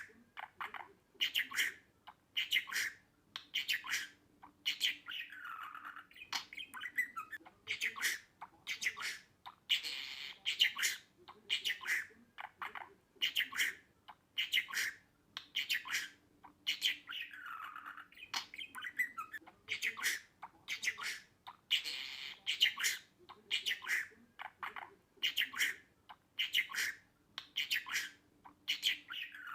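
Budgerigar calling: a run of short, sharp squawks and chirps at about one or two a second, with a few longer warbling passages in between.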